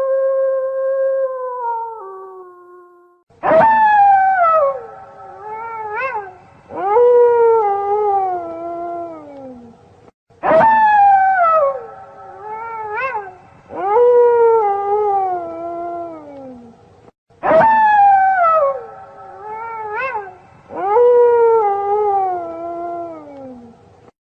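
Wolves howling in chorus, several long overlapping howls sliding down in pitch, with a short rising yelp among them. The same roughly seven-second passage of howls repeats three times, starting about three seconds in, after an earlier held howl fades out.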